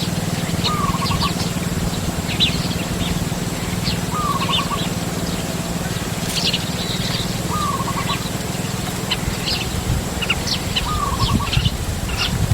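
Small birds chirping, with one bird repeating the same short call about every three and a half seconds among scattered higher chirps, over a steady low hum.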